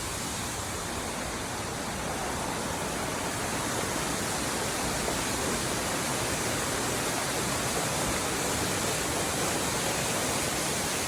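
Jungle waterfall rushing: a steady, even roar of falling water that swells slightly a few seconds in.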